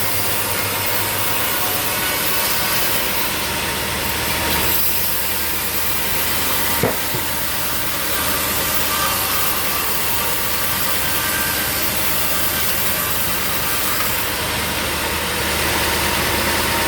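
Sawmill machinery running steadily: engine noise under a constant hiss, with one sharp knock about seven seconds in.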